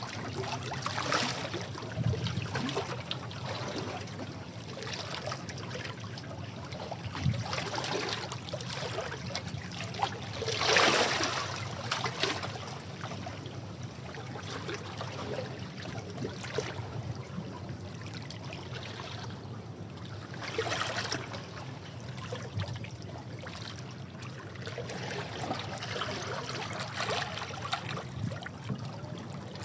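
Sea waves washing against rocks: a steady wash of water with irregular louder surges and splashes, the biggest about eleven seconds in.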